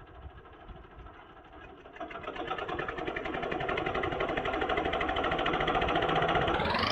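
Tractor diesel engine running steadily, growing louder about two seconds in. A fast rising sweep in pitch starts just before the end.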